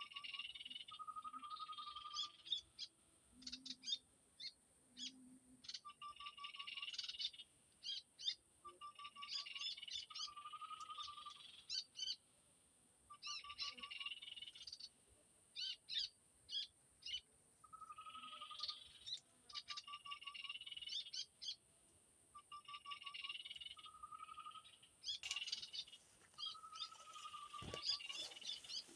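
Small-bird calls repeating as a loop, as from an MP3 lure: a short trill followed by a burst of high chattering notes, every few seconds. A steady high hiss runs underneath.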